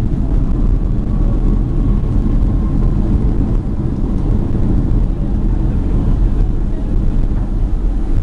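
Boeing 767-300ER cabin noise: a steady, loud low rumble of the engines and airflow, heard from inside the cabin, with a faint whine that sinks slightly in pitch over the first few seconds.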